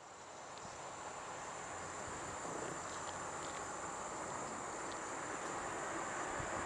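Steady high insect trilling, cricket-like, over a wide rushing noise that fades in and grows steadily louder.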